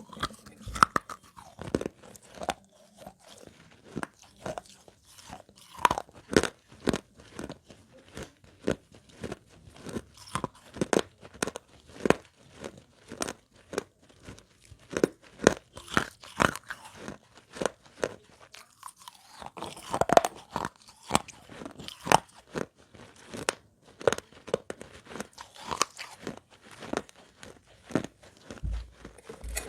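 Close-miked chewing of broken baked-clay pot pieces: a run of sharp, gritty crunches, about one or two a second.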